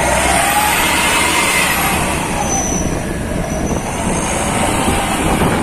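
Loud, steady rumble of a truck engine and road noise, with a faint wavering whine above it.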